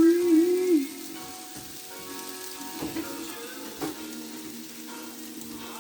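Chicken frying in a pan with a steady sizzle, with a loud wavering pitched tone over it for about the first second.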